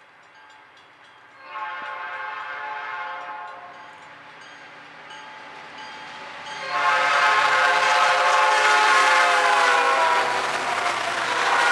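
CSX freight diesel locomotive's air horn sounding two blasts: a shorter one about a second and a half in, then a longer, louder one with its pitch sagging slightly at the end, as the train comes by. The noise of the passing train follows near the end.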